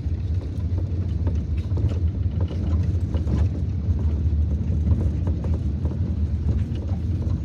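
Car interior noise while driving: a steady low road-and-engine rumble.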